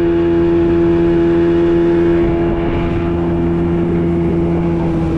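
Boat motor running steadily with an even, unbroken engine hum, easing slightly a couple of seconds in.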